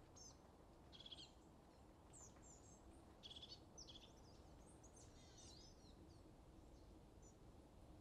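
Near silence: faint background hum with scattered short bird chirps.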